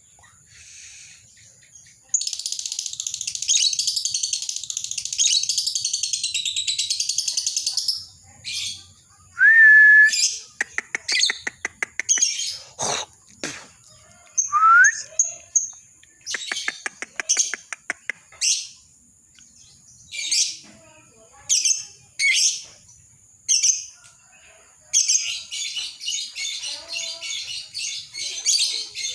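Lovebird ngekek: long runs of continuous, shrill, rapid chattering song, one from about two seconds in to eight seconds and another near the end. Between the runs come short sharp chirps, fast clicking trills and a couple of brief whistled notes.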